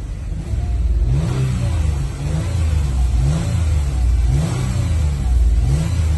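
2011 Toyota Sienna engine revved in short repeated blips, its pitch rising and falling about once a second.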